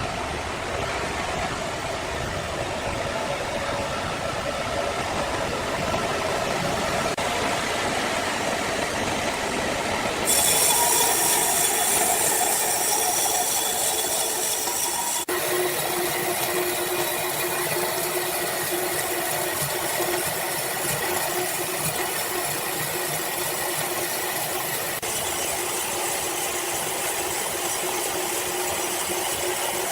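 Sawmill saw and machinery running, a loud, continuous mechanical noise. It shifts abruptly about ten seconds in, with more hiss on top, and again about fifteen seconds in, when a steady tone comes in.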